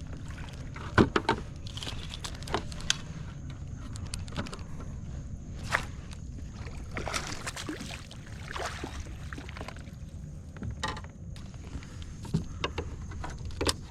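Scattered knocks, clicks and scrapes on a fishing kayak, with a few short swishes, as a bass is landed and handled.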